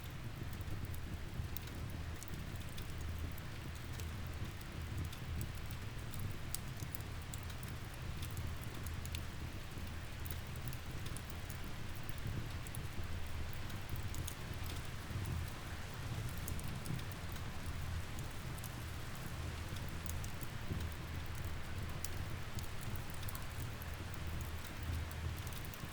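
Steady rain with a low rumble underneath and scattered sharp pops and crackles from a wood fire.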